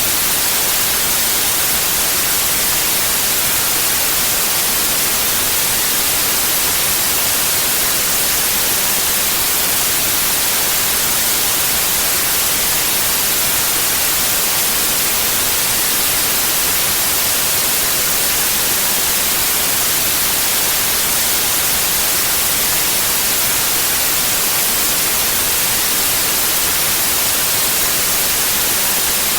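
Synthetic white noise: a steady, even hiss, loudest in the high frequencies, unchanging throughout.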